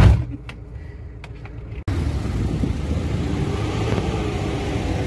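Off-road vehicle engine running on a snowy track, with a sharp thump at the start and a quieter stretch inside the cab. About two seconds in the sound cuts abruptly to a steady engine rumble under even, hissing outdoor noise.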